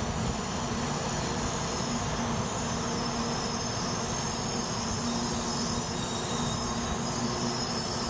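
Shinkansen train rolling along a station platform at low speed: a steady rumble of wheels and running gear with a constant hum and a faint high-pitched whine.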